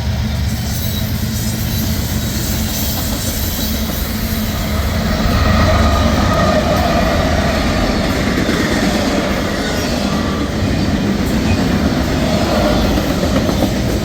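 Freight train passing, a steady loud rumble of wheels on rail with some squealing tones from the wheels.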